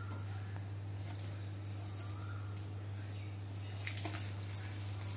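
A bird's short high call, falling in pitch, repeated about every two seconds over a steady low hum, with a couple of faint knocks about four seconds in.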